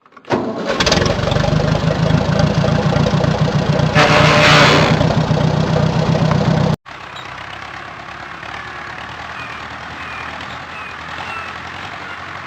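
A vehicle engine running loudly, with a burst of hissing noise about four seconds in. Then, after an abrupt cut partway through, another engine runs more quietly and steadily, with faint short chirps over it.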